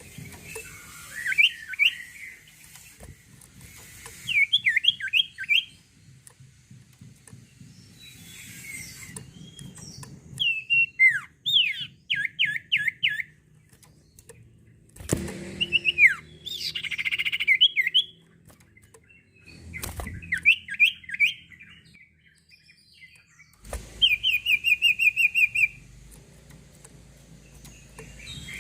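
Sirtu songbird singing in short bursts of quick, sweeping chirps with pauses between phrases, ending in a fast, even trill of repeated notes. A couple of brief thuds are heard midway.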